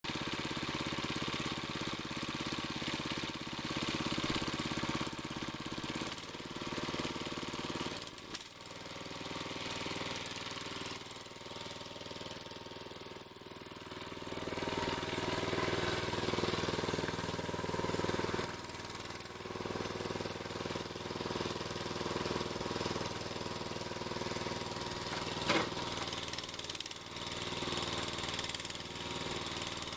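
Exmark mower's small engine, which the owner thinks is a 15-horsepower Kawasaki, running steadily while the mower is driven up wet ramps into a truck bed, its loudness rising and falling with the load. A single sharp knock sounds about 25 seconds in.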